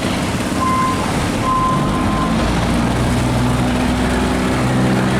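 Diesel engines of boats and barges running steadily over a rushing haze of noise, with two short, high steady tones in the first couple of seconds.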